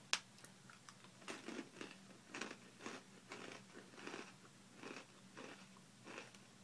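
A person chewing crunchy cheddar pretzel bites, a faint crunch about twice a second, with one sharper crack just at the start.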